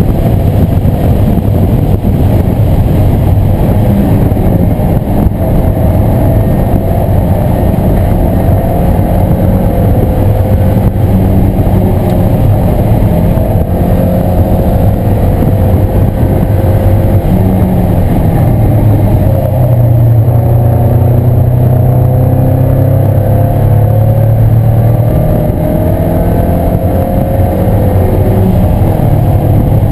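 1997 Mazda Miata's 1.8-litre four-cylinder engine, loud and driven hard around a race track, its revs climbing and falling again and again through gears and corners.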